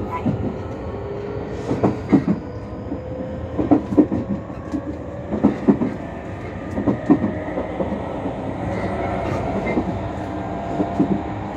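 Tobu Skytree Line electric commuter train accelerating away from a station, heard from inside the passenger car: the traction motor whine rises slowly in pitch. The wheels clack over rail joints in pairs that come closer together as the train gathers speed.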